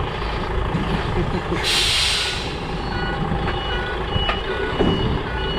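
Container truck's diesel engine running, with a loud hiss of air brakes releasing about one and a half seconds in. From about three seconds in, the reversing alarm sounds a short repeating beep.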